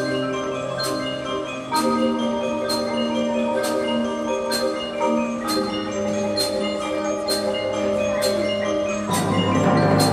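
Ensemble music: sustained chords under mallet percussion, with a sharp tick about once a second keeping the beat. The texture gets fuller and louder near the end.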